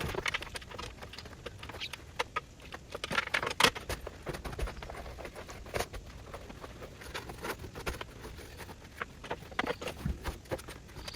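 Irregular knocks, clicks and scuffs of camp gear being handled and packed away, the loudest knock about three and a half seconds in.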